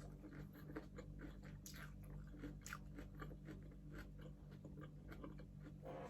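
A person chewing crispy pata (deep-fried pork knuckle) close to the microphone: a quiet run of short, irregular crunches over a steady low hum.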